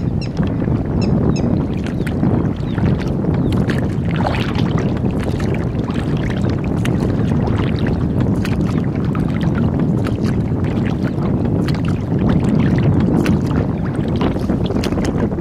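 Water lapping and splashing against a rowboat, with many small sharp splashes, over a steady low rumble of wind on the microphone.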